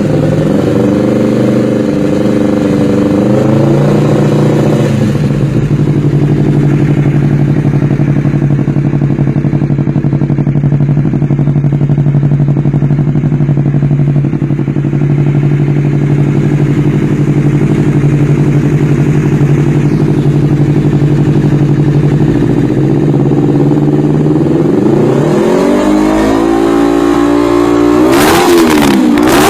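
Honda CBR250RR motorcycle engine and exhaust running. It settles from slightly raised revs to a steady idle about five seconds in. Near the end it is revved up, with a few quick throttle blips that rise and fall in pitch.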